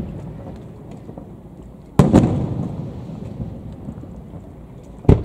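Aerial firework shells going off: two sharp booms about three seconds apart, each followed by a rolling echo that dies away.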